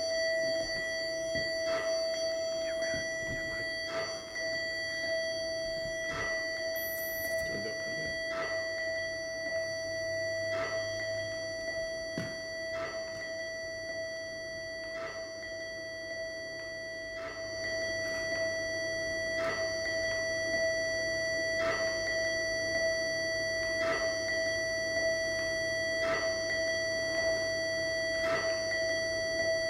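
Electronic music: steady held tones with a sharp click about once a second.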